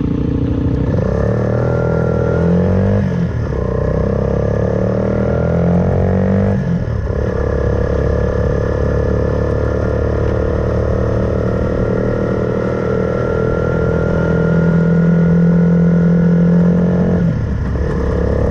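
Suzuki Van Van 125's single-cylinder four-stroke engine through an aftermarket Black Widow exhaust, pulling up through the gears. The revs rise twice with a short break for each gear change, then the engine settles to a steady cruise and eases off briefly near the end.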